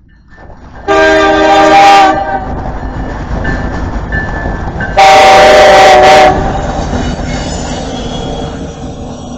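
Locomotive air horn sounding two loud blasts, a chord of several tones: one starting about a second in and a slightly longer one about five seconds in. Between and after them runs the rumble and clatter of the passing train, slowly fading.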